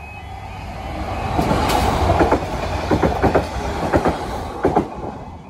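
A Greater Anglia passenger train passing over a level crossing. The rumble builds, then the wheels clack over the rail joints in quick pairs, and it falls away near the end.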